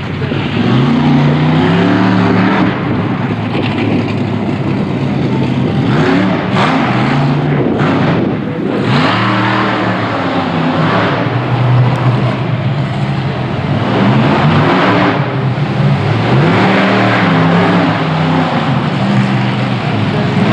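Monster truck engine revving up and easing off again and again, loud throughout.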